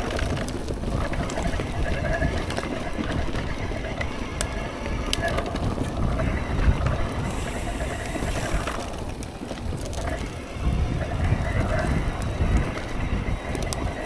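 Mountain bike rolling along a wet dirt trail: steady wind and tyre rumble with a few sharp rattles and clicks from the bike.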